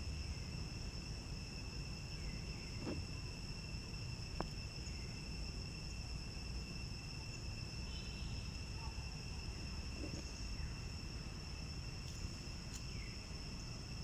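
Insects buzzing steadily on one high pitch, over a low rumble, with a few faint clicks.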